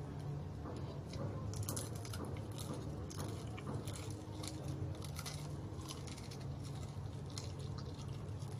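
A person chewing and biting into crispy fried chicken, with many short wet smacks and crunchy clicks, over a steady low hum.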